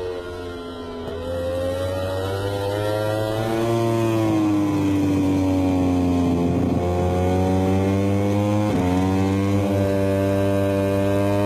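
Onboard sound of a MotoGP racing motorcycle's four-cylinder engine at racing speed. The engine note jumps up, sinks slowly for a few seconds, dips sharply at a gear change about nine seconds in, then climbs steadily as the bike accelerates.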